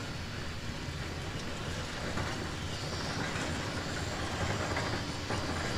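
Heavy diesel construction machinery running steadily: a deep engine rumble with a low hum and mechanical noise over it.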